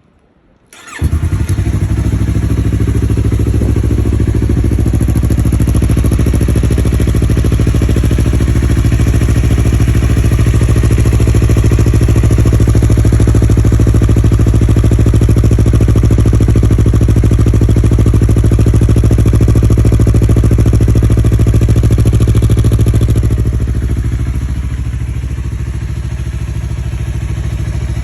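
Yamaha R3's parallel-twin engine, breathing through an Akrapovic full exhaust with its silencer insert fitted, starting up about a second in and then idling steadily and loudly. About 23 seconds in the engine note drops a little and quietens.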